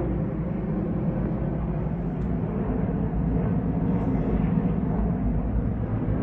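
Helicopters flying, a steady low drone of rotors and engines.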